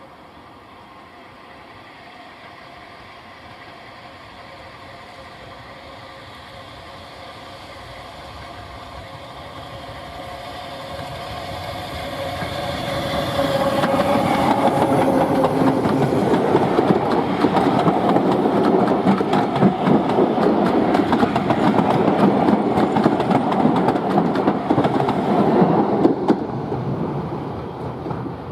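Steam train approaching and passing close by: the sound builds slowly for about twelve seconds, stays loud with a fast, dense clatter for roughly twelve seconds, then falls away near the end.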